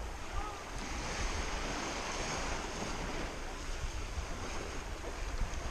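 Black Sea waves washing steadily on the shore, with wind rumbling on the microphone.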